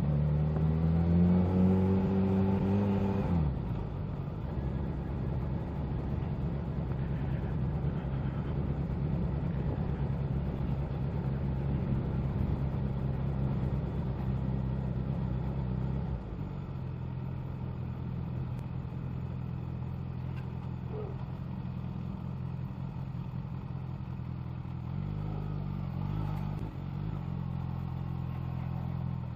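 Kawasaki Z H2's supercharged inline-four engine on the move. The revs climb for about three seconds, then drop as the throttle closes, and the engine runs steady at low revs. It settles lower about sixteen seconds in, with a brief rise and fall in revs near the end.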